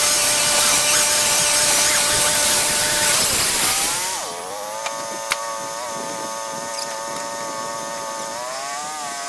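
Portable bandsaw sawmill running: a steady engine drone under a loud cutting hiss. About four seconds in the hiss and the overall level drop, and the engine pitch dips and settles. The pitch rises a little near the end.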